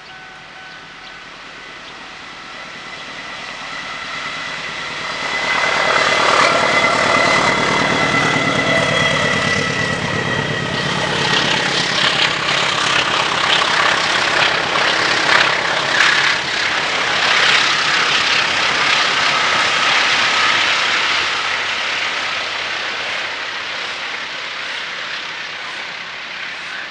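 A train approaching and passing close by. It grows loud over a few seconds, with the clatter of its wheels over the rail joints running through the middle, then fades away.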